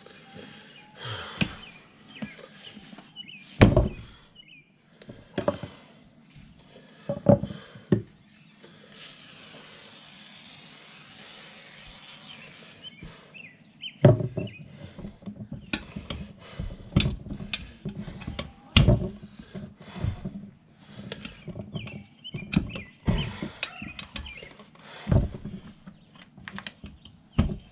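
Tire irons clanking and knocking against a motorcycle wheel rim as an old tire is pried off, in a run of irregular sharp knocks. A steady hiss lasts about four seconds near the middle.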